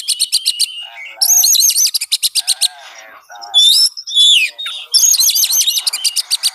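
Oriental magpie-robin singing loudly: a varied song of whistled slurs broken by three bursts of rapid, evenly repeated high notes.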